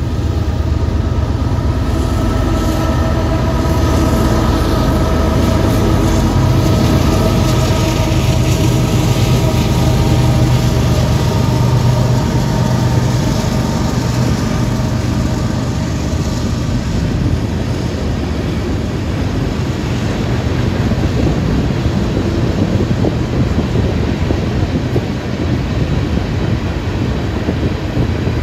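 Union Pacific GE AC44CW-type diesel-electric locomotives hauling a loaded coal train past. For the first half the engines drone steadily over a heavy rumble. Later the loaded coal hopper cars roll by, their wheels making a steady rumble and clatter on the rails.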